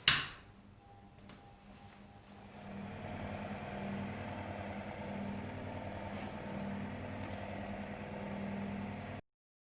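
Restored vintage electric table fan: a click, then its motor hums steadily after building up over about three seconds, cut off suddenly near the end.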